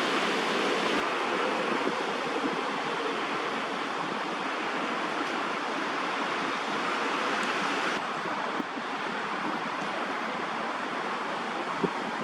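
Steady rushing outdoor background noise, with one faint click near the end.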